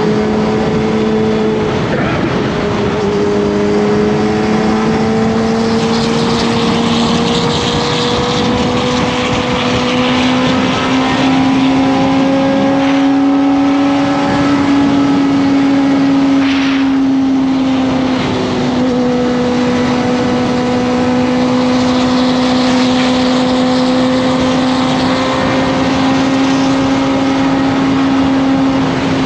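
Kawasaki ZX-25R's 250 cc inline-four engine running steadily while the bike is ridden. Its note climbs slowly, with brief drops about two seconds in and again a little past halfway, over a rush of wind.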